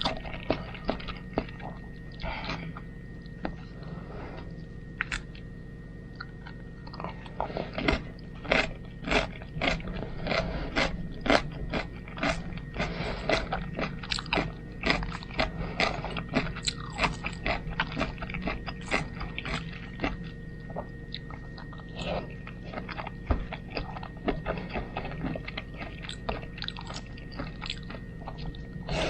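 Close-miked chewing and mouth sounds of a person eating spaghetti: a dense run of short, wet clicks and smacks, busiest in the middle stretch.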